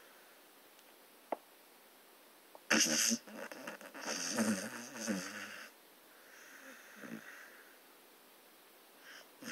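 Staffordshire bull terrier snoring in its sleep, a pig-like snore. A loud rasping snore starts about three seconds in and lasts about three seconds. A softer breath follows around seven seconds, and another snore begins near the end.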